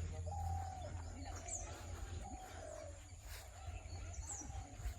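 Birds calling: a mid-pitched, slightly falling call repeated about once a second, with a few thin high chirps, over a low hum that fades about a second in.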